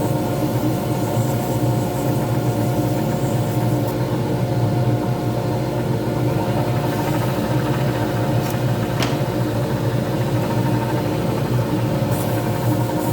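Lathe motor running steadily, spinning a resin pen blank, with one short sharp tick about nine seconds in.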